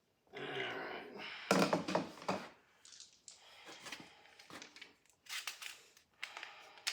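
Irregular rustling, clicks and knocks of hands handling small parts, as pellets are dug out and loaded into an air rifle magazine.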